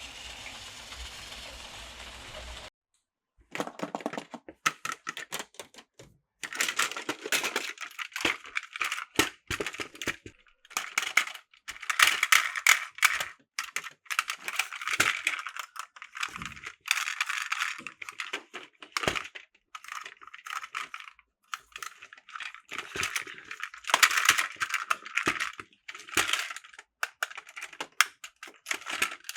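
A steady noise that cuts off about three seconds in, followed by dense, irregular clicking and rattling of hard plastic Plarail toy track and parts being handled.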